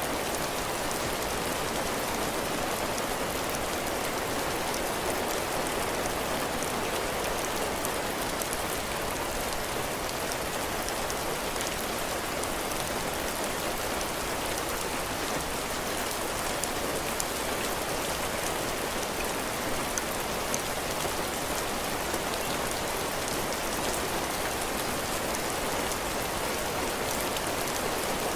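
Heavy rain falling steadily on a cabin porch, drops pattering on the roof and floor in an even hiss with fine individual drop ticks.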